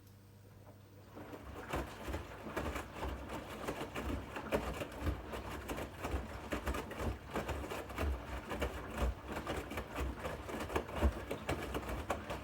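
Bosch Series 8 washing machine drum turning, with laundry tumbling and water sloshing in a dense, irregular clatter and low thuds. It starts about a second in.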